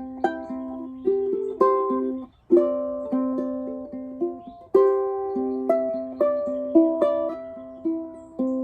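Instrumental break of a folk song on a solo plucked string instrument: single notes and chords picked one after another and left to ring, with a brief gap about two and a half seconds in.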